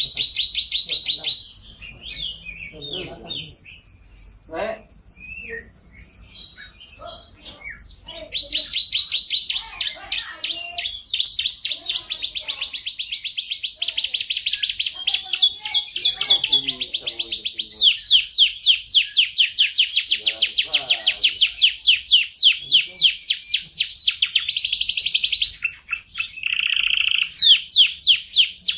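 Domestic canary singing: fast trills and rolls of rapidly repeated high notes, in short broken phrases for the first several seconds and then an almost unbroken run of trills.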